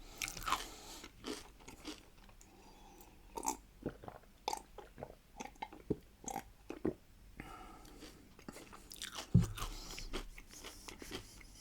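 Close-miked biting and chewing of crunchy pickled cucumbers, with crisp crackling crunches spread throughout. A single louder low thud comes about nine seconds in.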